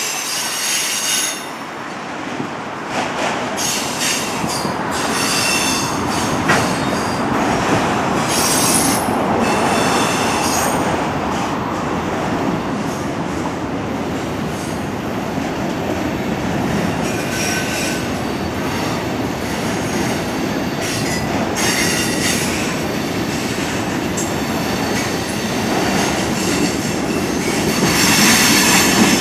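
Mixed freight train rolling past with a steady rumble, its wheels squealing in short high-pitched bouts every several seconds.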